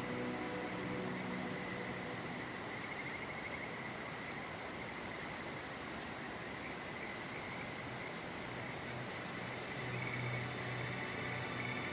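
River water running with a steady rush, with insects chirring in a steady high band over it.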